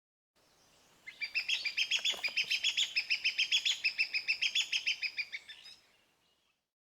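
Hornbill calling: a rapid, even series of about eight or nine clipped notes a second that lasts some five seconds, rising a little in pitch and then easing down before it fades.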